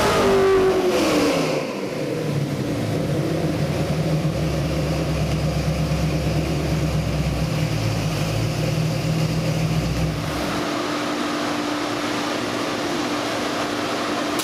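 Ford 331 stroker small-block V8 on an engine dyno, its revs falling quickly as the throttle closes at the end of a full-power pull, then running steadily at low speed. About ten seconds in it drops to a quieter, steadier hum.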